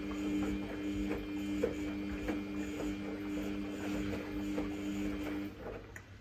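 Samsung WF1700WRW front-loading washing machine turning its drum during the wash: a steady motor whine with laundry and water tumbling, stopping about five and a half seconds in as the drum pauses.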